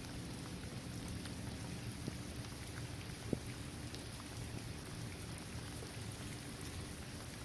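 Steady rain falling on a hard court surface, trees and grass, with scattered separate drop ticks and one sharper drop about a third of the way through.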